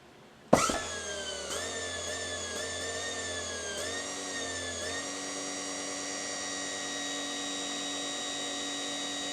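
A DIY e-bike's high-torque electric motor switched straight on with a push button: a sharp click and a quick spin-up about half a second in, then a steady high whine. The pitch wavers a little for the first few seconds, then holds steady while the button stays pressed.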